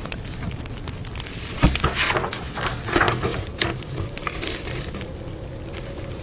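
Campfire crackling, with irregular pops and snaps.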